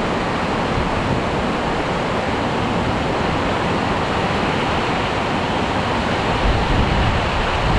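Heavy rain pouring down in a windstorm, a steady dense hiss, with wind gusting against the microphone as a rumbling buffet, strongest near the end.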